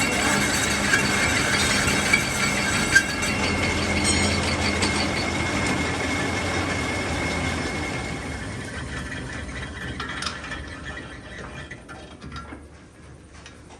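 Metal lathe machining a steel wheel rim, the cutting tool giving a steady high squeal with a few sharp clicks; it fades away over the last few seconds as the machine runs down.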